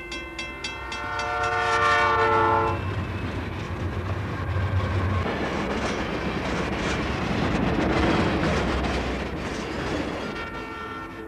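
Diesel locomotive approaching and sounding its multi-tone horn, which grows louder and cuts off about three seconds in. The train then goes by with a loud, steady rushing noise that fades near the end.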